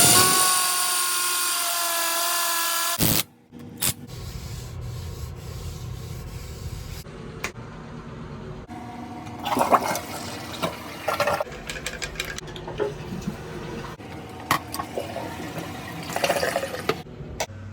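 Music with singing that cuts off abruptly about three seconds in, followed by the scraping, rubbing and light knocking of hands-on plumbing work, with scattered clicks.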